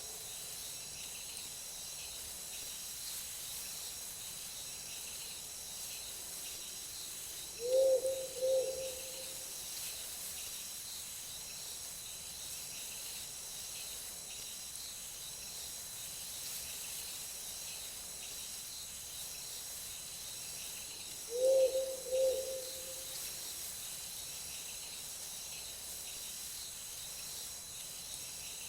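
A steady high insect chorus of night crickets, with a low two-note bird call twice, about 13 seconds apart.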